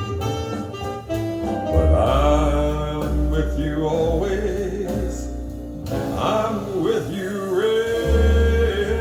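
A jazz ballad, with a male vocalist holding and bending long wordless or unclear notes over a band accompaniment with a steady bass line.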